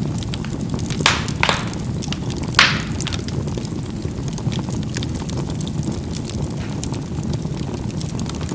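Charcoal burning in a fireplace: a steady low rumble of the fire with small crackles throughout, and three louder sharp pops as the charcoal bursts in the first three seconds.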